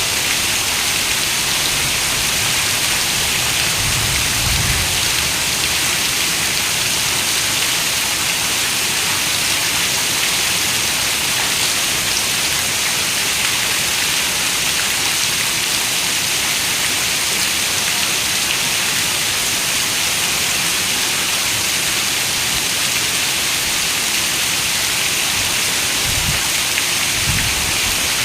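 Heavy rain falling steadily on a window, a dense, even hiss. Brief low rumbles come a few seconds in and again near the end.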